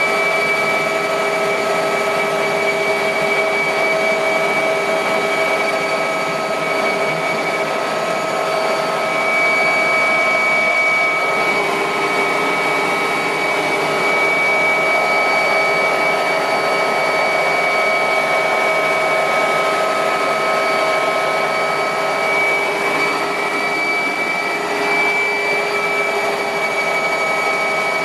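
Mil Mi-2 helicopter's twin turboshaft engines and rotors running steadily, heard inside the cockpit: a constant whine of several steady pitches over a rushing noise.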